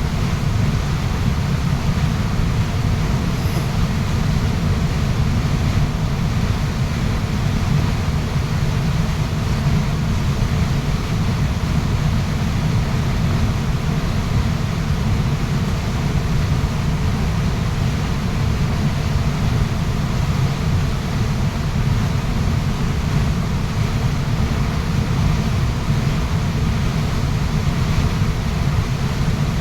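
Waterfall rushing: a steady, unbroken roar of falling water, deepest and strongest in its low rumble.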